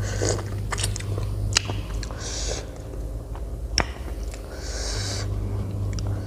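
Close-miked chewing and mouth sounds while eating spicy papaya salad with pickled shrimp: wet clicks and smacks, with two short hissy sounds about two and five seconds in.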